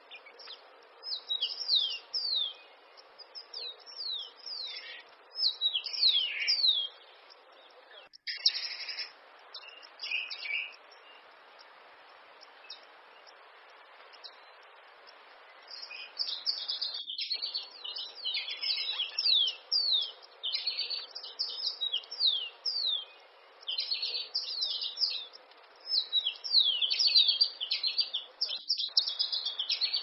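A small bird chirping, with rapid high notes that sweep downward, in bursts over a steady hiss. There is a lull of a few seconds about midway, then nearly continuous chirping in the second half.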